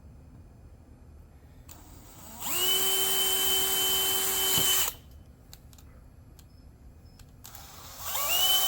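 Power drill whining up to speed and running steadily for about two and a half seconds, then stopping. A second run starts near the end, as holes are drilled through a cap for wires to pass through.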